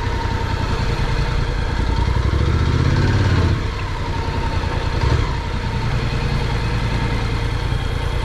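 Honda NC750X motorcycle's parallel-twin engine running at low speed, pulling harder for the first three seconds or so, then easing off with a brief blip of throttle about five seconds in.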